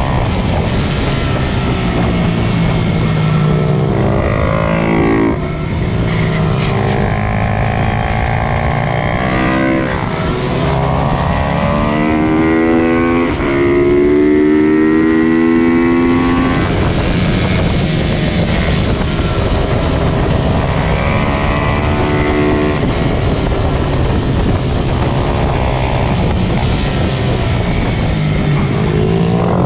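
Several small single-cylinder pit bike engines revving hard through the gears during a race, their pitch repeatedly climbing and dropping as they accelerate and shift, overlapping one another. The sound is loudest about halfway through.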